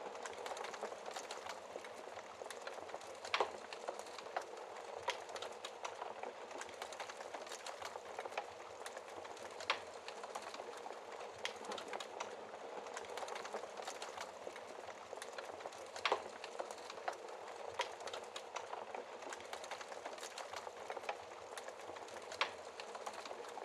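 Wood campfire burning, with a steady hiss and frequent small crackles, broken by a few louder sharp pops from the burning wood.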